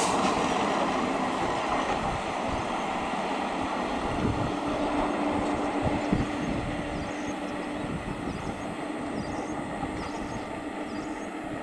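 Electric multiple unit (EMU) suburban train running on the track: a steady rumble and rattle of wheels on rail, slowly fading, with a steady hum joining about four seconds in.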